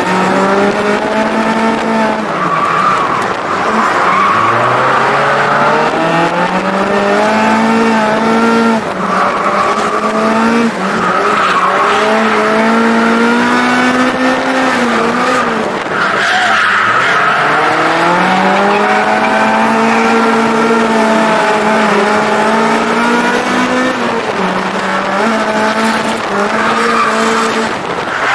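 Mazda NA Roadster's bored-out four-cylinder engine with individual throttle bodies and a Car's C'z plus one muffler, revved hard at full throttle on a circuit. The revs climb and drop several times through gear changes and lifts, heard from the open cockpit with wind noise mixed in, and the tyres squeal at times while the car drifts.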